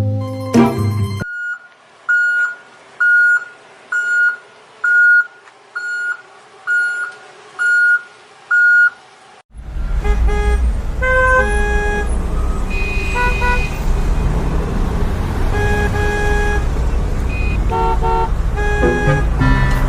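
Nine evenly spaced electronic beeps, about one a second, like a truck's reversing alarm. Then, from about halfway, a loud low vehicle rumble with short horn toots over it.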